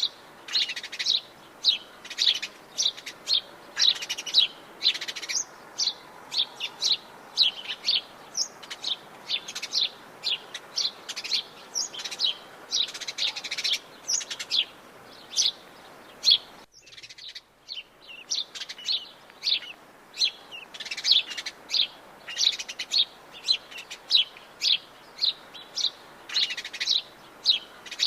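Birds chirping: many quick, high chirps and short calls follow one another densely. The sound drops out for under a second a little past halfway, then the chirping resumes.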